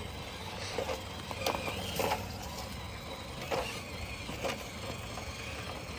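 RC scale rock crawler working over rocks: scattered clicks and knocks from tyres and chassis on stone, with a brief high motor whine about two seconds in, over a steady low rumble.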